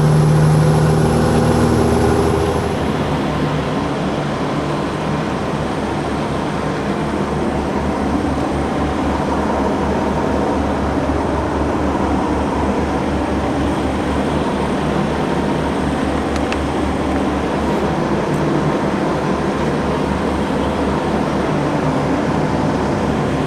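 Peterbilt 379 truck's diesel engine running. For the first couple of seconds there is a strong pitched hum with a high whine, then a steady low, evenly pulsing rumble.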